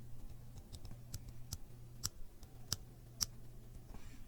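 A handful of small, sharp, irregular clicks as thin metal model-kit parts and their tabs are handled and bent by hand.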